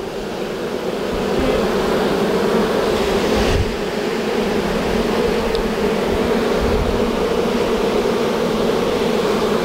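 A swarm of honey bees buzzing loudly at close range, stirred up as they are scooped by hand. The steady hum swells over the first second or so and dips briefly about three and a half seconds in.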